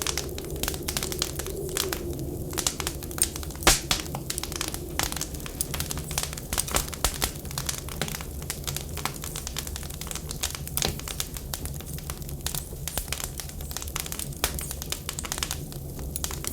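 Wood fire crackling in a fireplace: a dense, irregular run of small pops and snaps with one sharper pop about four seconds in, over a steady low hum.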